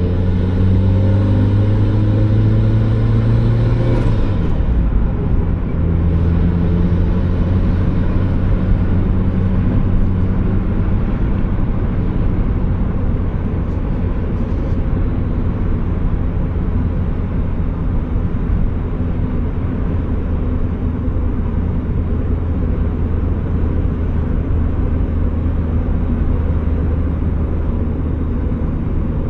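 Turbocharged Mazda Miata's four-cylinder engine pulling under acceleration, its pitch rising for about four seconds, then a brief burst of noise as the revs drop about four seconds in. After that the engine settles into a steady low drone at cruise, with road noise.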